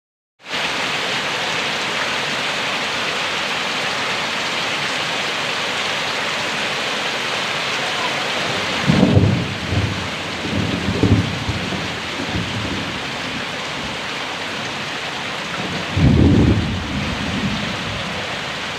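Heavy rain pouring steadily, with low rumbles of thunder swelling about nine seconds in, again around eleven seconds, and once more near the end.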